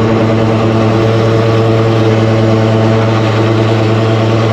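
Drain jetting machine's engine running steadily with a constant low hum, keeping the high-pressure water pump going.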